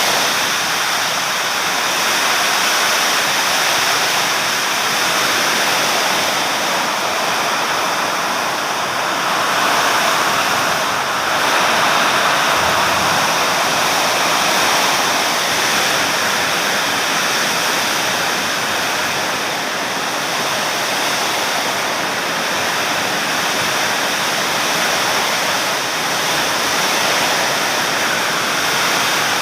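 Heavy storm rain pouring down: a loud, steady rushing hiss that swells and eases slightly.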